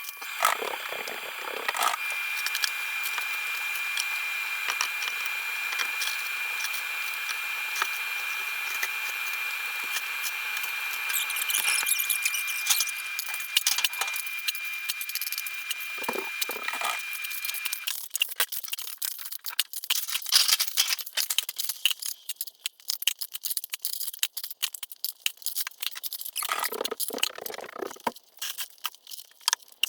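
Insulation being torn and pulled down from a basement ceiling, with irregular crackling, ripping and crinkling. For the first half a steady hiss with a thin high whine runs underneath, then stops.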